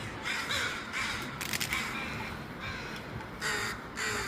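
Crows cawing: a run of harsh caws in the first second and a half, then another caw near the end.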